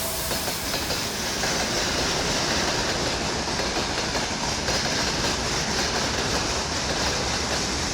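A train passing on the track, its wheels on the rails making a steady, even noise.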